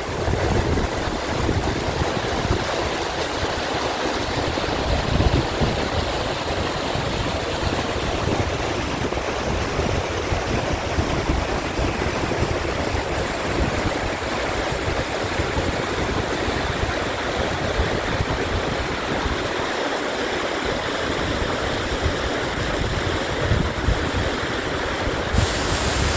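Mountain valley stream rushing steadily, with wind buffeting the microphone in an uneven low rumble.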